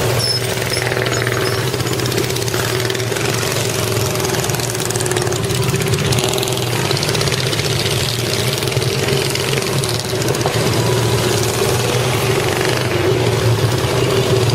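An engine running at a steady speed, its pitch and loudness holding constant.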